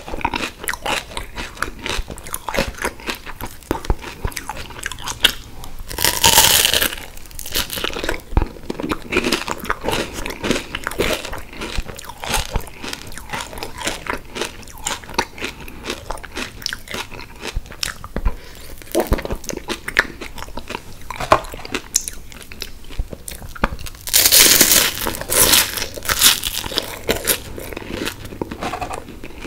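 A person eating close to the microphone: chewing and crunching on a wafer ice cream cone, with many small mouth clicks. There are two louder crunching bites, about six seconds in and again about five seconds before the end.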